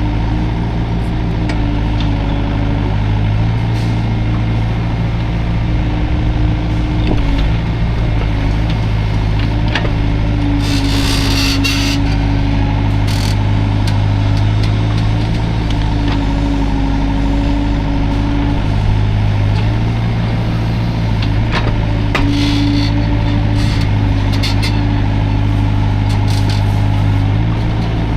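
Hydraulic excavator's diesel engine running steadily, its pitch shifting slightly as the hydraulics take load. Two brief hissy bursts come partway through.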